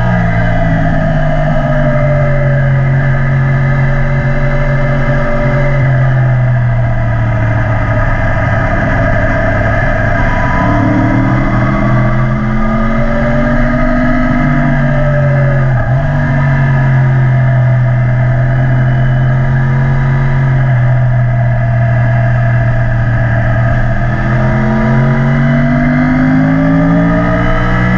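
Yamaha YZF-R1's crossplane inline-four running through an Akrapovic exhaust while riding, with a low rumble underneath. The engine note eases off, climbs, dips sharply for a moment about halfway, holds steady, then rises again near the end.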